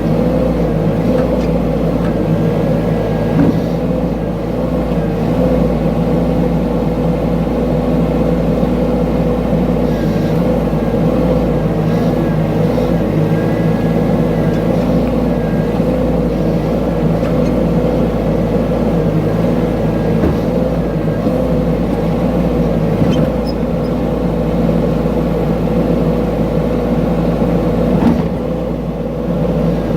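Mini excavator's engine running steadily under work, a continuous drone with a few faint knocks along the way.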